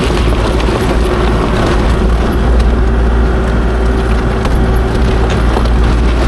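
Kubota KX040-4 mini excavator's diesel engine running steadily: a constant low rumble with a held whine, and a few faint clicks.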